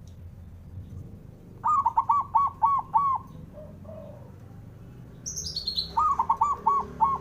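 Zebra dove (perkutut) calling twice, each a quick run of about five short cooing notes. Just before the second run, a higher-pitched bird gives a fast descending chirp.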